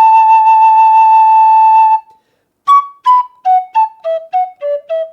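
Native American style flute in the key of B playing one long, steady high note for about two seconds. After a short pause it plays a quick run of short notes stepping downward.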